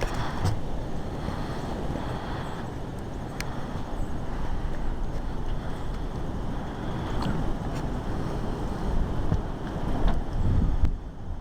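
Strong wind gusting across the microphone during a windstorm, a rumbling buffet that rises and falls, with a few sharp ticks; it drops suddenly near the end.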